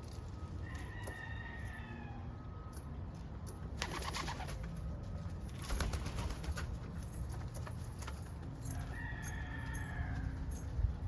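Homing pigeons cooing: two drawn-out coos, one about a second in and another near the end, with scattered rustles and clicks between them.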